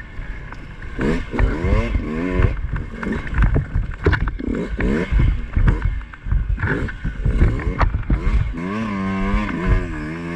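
Two-stroke dirt bike engine revving up and down over and over as it is ridden over rough trail, with brief clatters in between; it settles into a steadier, wavering run near the end.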